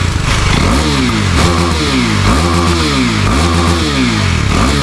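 KTM Duke 390's single-cylinder engine through its stock muffler, idling and revved up and down several times in quick throttle blips.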